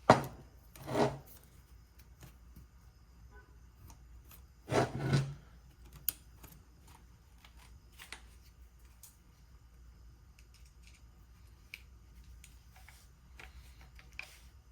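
Hand-handling of a hammer drill's parts during reassembly: a few louder knocks and rubs near the start and about five seconds in, then scattered light clicks of plastic and metal pieces.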